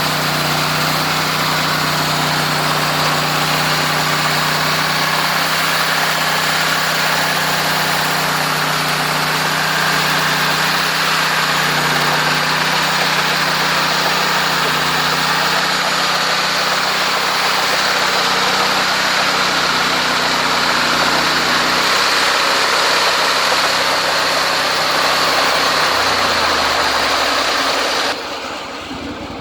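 Engine of a homemade sawmill running steadily, a constant low hum under a broad hiss. Near the end the sound drops abruptly.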